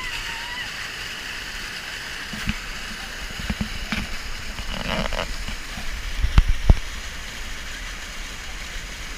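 Rushing river water and splashing, with several dull low knocks through the middle and two heavier thumps a little past two-thirds of the way through.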